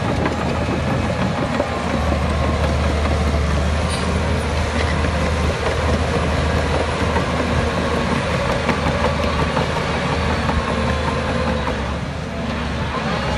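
Heavy diesel earthmoving machinery running steadily, a deep engine rumble that gets louder about two seconds in and dips briefly near the end.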